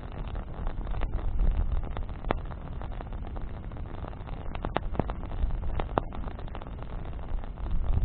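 Wood campfire burning: scattered sharp crackles and pops from the burning branches, the clearest near the middle and toward the end, over a steady low rumble.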